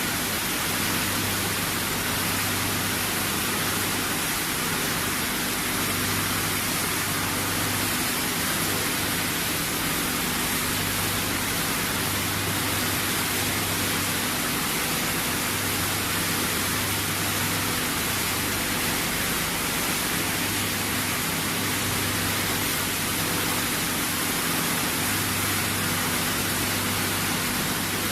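Machinery of a PET bottle washing and recycling line running: a loud, even hiss with a low hum that swells and fades every few seconds.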